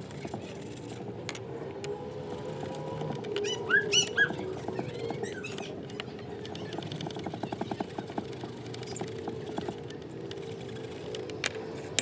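A bird calls outside: two quick, sharp rising chirps about four seconds in, over a low wavering drone. A run of light ticks and scratches follows as small metal igniter parts are handled and brushed.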